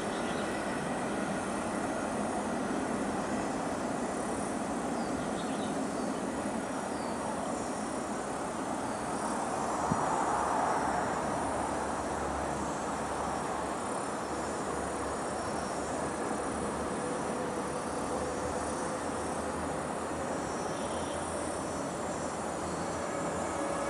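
Steady rumble of a train rolling away on the track, a DF4B diesel locomotive hauling metro cars, fading into the distance, with a brief louder swell about ten seconds in. Insects chirp steadily throughout.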